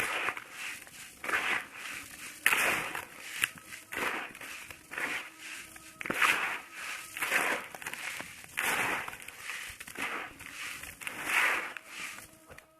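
A dry, moulded block of grainy sand being smashed and crumbling, a run of gritty crunches about once a second with sharp crackling grains among them.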